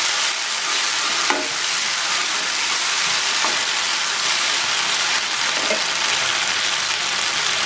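Sliced onion and ginger-garlic paste sizzling in soybean oil in a nonstick pan on low heat, stirred with a wooden spatula that knocks against the pan a few times.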